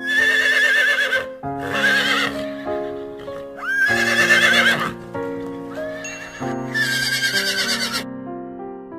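Horses whinnying four times, each neigh a quavering high call lasting a second or so, over background music.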